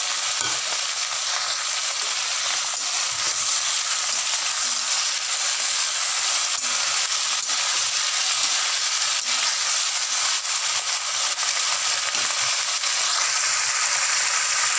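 Cauliflower, potato, capsicum and tomato sizzling steadily in hot oil in a wok over a high flame, with a wooden spatula now and then knocking and scraping the pan as they are stirred.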